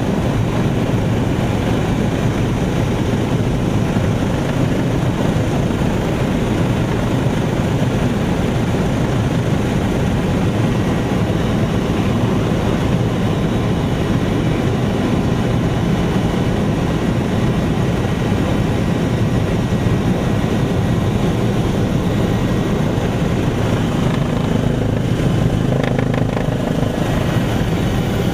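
Helicopter running: a loud, steady din of rotor and engine noise, unchanging throughout.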